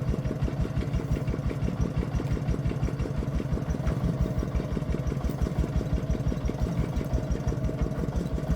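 Single-cylinder diesel engine of a Vietnamese công nông farm truck running steadily, with a rapid, even chugging beat.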